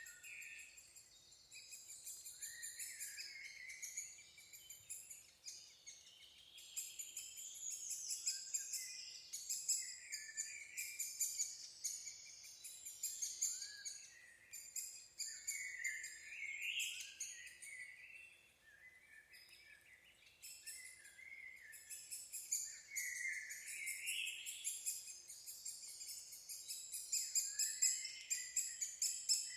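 Birds calling in a continuous, high-pitched, rapidly repeating chatter of chirps, with short rising notes now and then.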